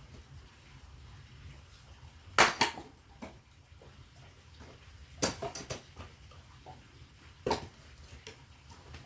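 Three sharp knocks, about two to three seconds apart, each followed by a brief clatter: firewood being struck and the pieces knocking together.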